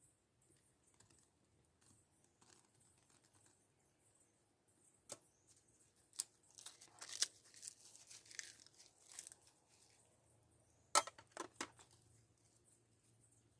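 Faint crinkling and tearing handling noises, bunched in a few seconds mid-way, with single sharp clicks about five and six seconds in and a quick pair near eleven seconds.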